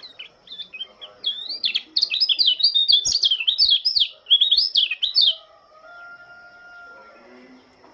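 Pleci lombok (white-eye) singing a fast, high warbling phrase of quick rising and falling notes that grows louder about two seconds in and stops after about five seconds. A faint steady tone follows.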